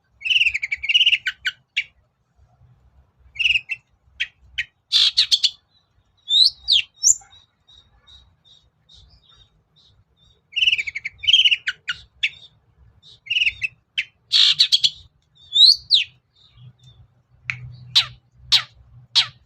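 Long-tailed shrike (cendet) singing: repeated bursts of harsh, scratchy chatter mixed with short whistled notes, separated by brief pauses. Near the end comes a run of quick, sharp downward-swept notes.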